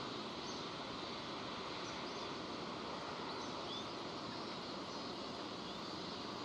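Steady rain falling, an even hiss, with a few faint high bird chirps scattered through it.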